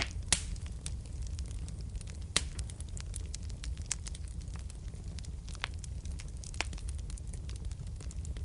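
Wood fire crackling in a fireplace. A steady low rumble of the burning logs runs under frequent sharp pops and snaps, the loudest right at the start and another about two and a half seconds in.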